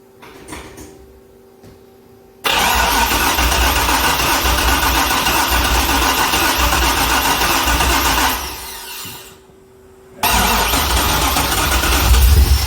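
Starter cranking the junkyard LS V8 in a 2005 C6 Corvette, in two long tries: the first begins about two seconds in and winds down after about six seconds, the second begins near the end. The engine turns over but does not keep running, and a faint steady hum sounds before each try.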